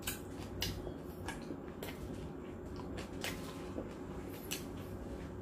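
Close-up mouth sounds of a person chewing roast pork: a handful of sharp wet smacks at irregular intervals over a faint low hum.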